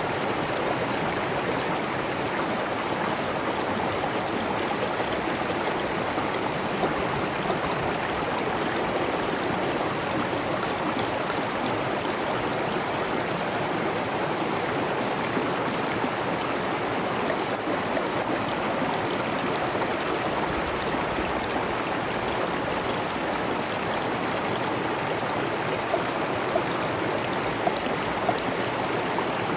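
Flowing water, a steady even rush like a stream, with no changes in level.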